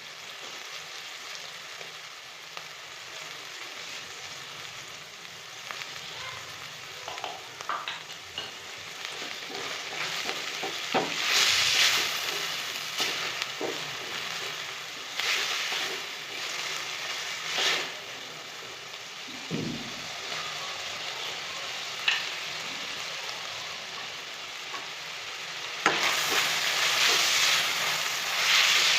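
Food frying and sizzling in a pan, with occasional short clicks and scrapes of a utensil stirring it. The sizzle swells louder several times, most strongly near the end.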